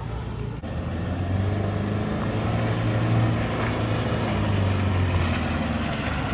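Off-road 4WD vehicle's engine running steadily while driving. A brief dip comes shortly after the start, after which the engine is louder.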